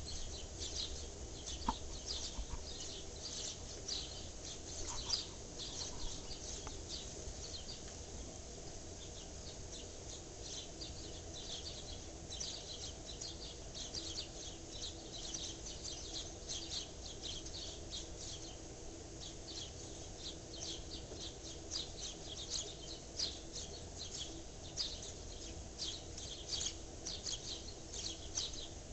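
Small birds chirping in a dense, continuous chorus of short, high-pitched calls, over a faint low background hum.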